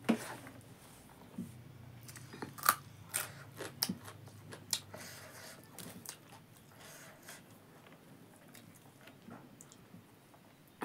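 Close-up mouth sounds of a person chewing a handful of rice with buffalo meat: wet smacks and crunchy clicks, thickest in the first few seconds and sparser after.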